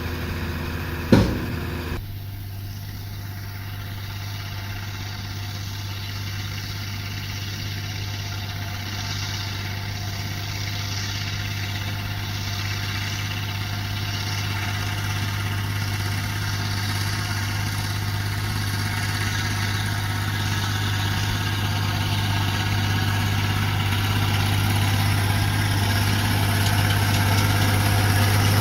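Tractor engine running steadily with a low hum that slowly grows louder toward the end, with one sharp, loud knock about a second in.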